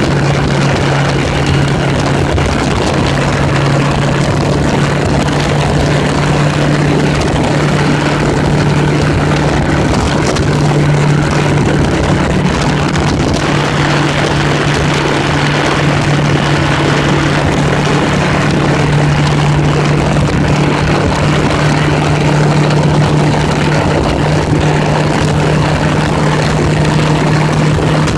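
1980s Honda Gold Wing motorcycle engine running at a steady cruise, its pitch holding even, under a heavy rush of wind noise.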